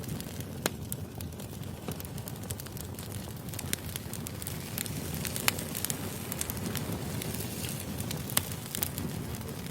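Wood fire burning: a steady low rumble with irregular crackles and pops, and a few sharper snaps of the burning logs scattered through.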